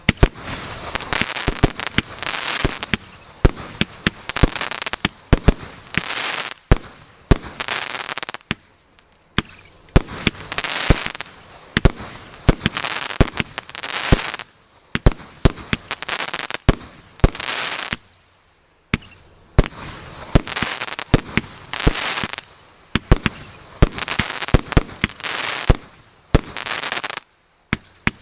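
150-shot 1.2-inch consumer firework cake firing: rapid sharp cracks of shots launching and bursting, coming in volleys of about a second each with a hiss under them, and short breaks about two-thirds of the way through and near the end.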